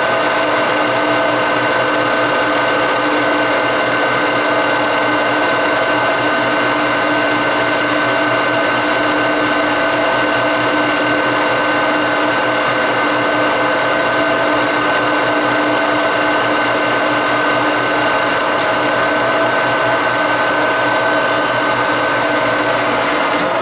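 Metal lathe running steadily with a constant whine. At the very end it is switched off and the whine starts to drop in pitch as the spindle slows.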